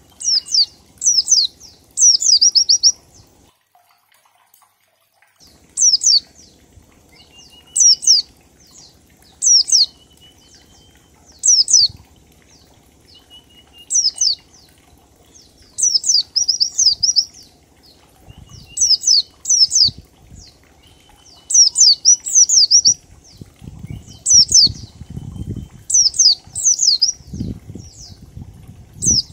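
White-eye (pleci) singing in the ngalas style: bursts of two to four sharp, high, falling whistles, repeated about every two seconds, with a faint lower trill between some bursts. Low thumps join in near the end.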